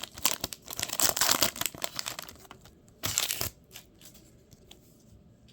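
A baseball card pack wrapper being torn open and crinkled: a dense run of crackling for about two and a half seconds, then one more short crinkle about three seconds in.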